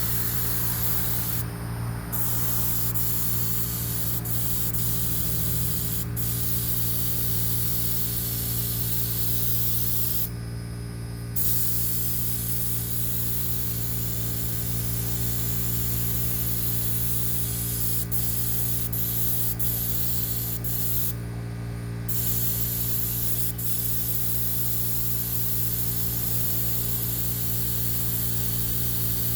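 Paint being sprayed: a steady hiss of spray that stops briefly three times as the trigger is let off, over a steady motor hum.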